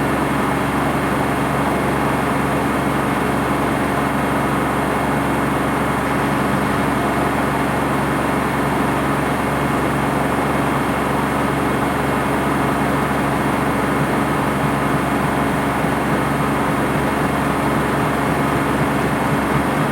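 Washing machine running with a loud, steady machine hum: the drum motor turning without pause, with a few held low tones over an even whir.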